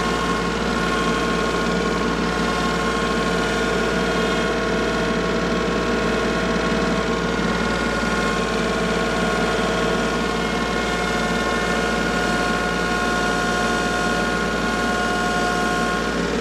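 Farm tractor engine running steadily at an even speed, with no revving or change in pitch.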